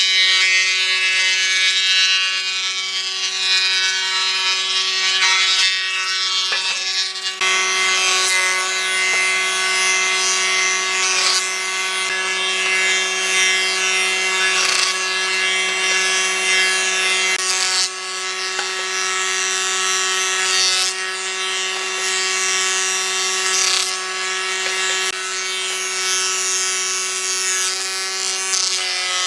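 Electric power tool working wood at a steady speed: a constant motor hum under a rough, rasping noise from the wood.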